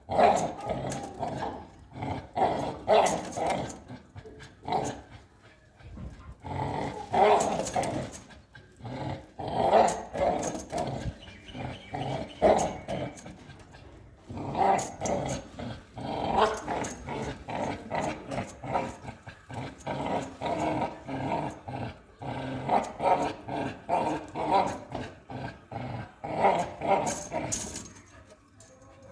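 American Pit Bull Terrier growling in repeated bouts, with short pauses between them.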